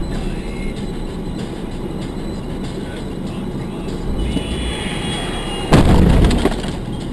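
Vehicle collision: steady road and engine rumble, a thin high squeal starting about four seconds in, then a loud crash of impact about a second and a half later, lasting under a second.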